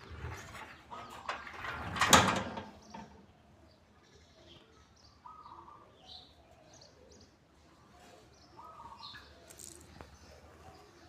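Birds chirping and calling in short, scattered notes, with one brief loud noise about two seconds in.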